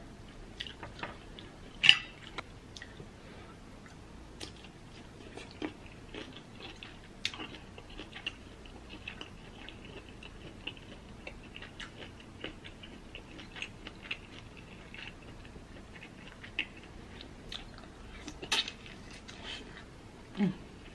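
Close-miked chewing of seafood-boil shrimp, with scattered wet mouth clicks and smacks.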